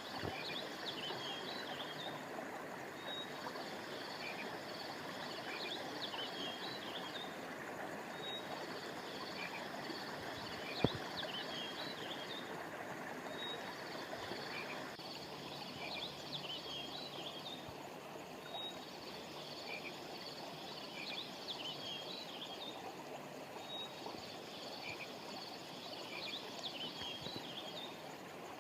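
Steady rush of flowing river water, its hiss softening about halfway through, under a chorus of high, repeating chirps from frogs and insects. There is a single sharp click about eleven seconds in.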